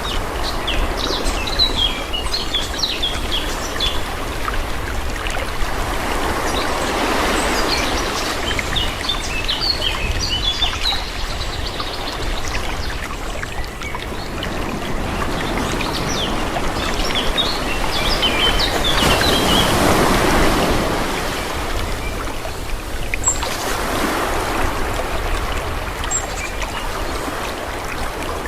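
Calm sea waves washing in, the water noise swelling and easing every several seconds. Small birds chirp in short bursts over it.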